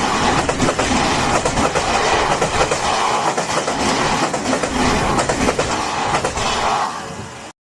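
Odakyu electric train passing close by, loud and steady, with wheels clattering over the rails; it cuts off abruptly near the end.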